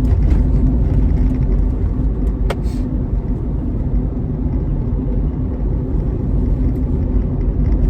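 Steady low rumble of a car heard from inside the cabin, engine and road noise, with two short clicks about two and a half seconds in.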